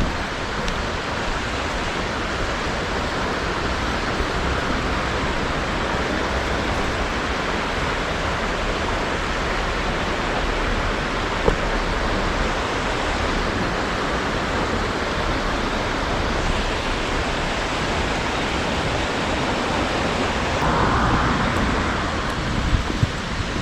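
Steady rush of a fast mountain stream, an even wash of water noise.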